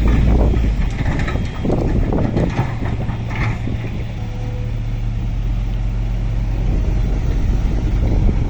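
Heavy diesel machinery running steadily at a dump-truck loading site: a low engine hum over a rough, noisy background.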